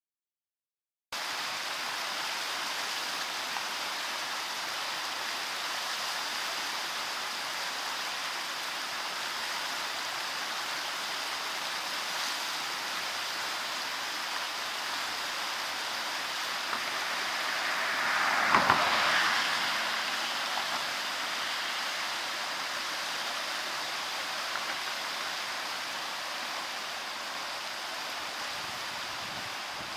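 The flooded Shikaribetsu River rushing full-bank as a muddy torrent after heavy typhoon rain: a steady rush of fast water starting about a second in. About two-thirds through, it swells briefly louder with a couple of sharp splashes.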